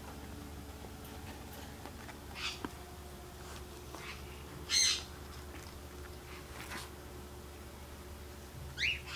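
Birds calling in the background: a few short squawks and chirps, the loudest about five seconds in and a rising chirp near the end, over a faint steady low hum.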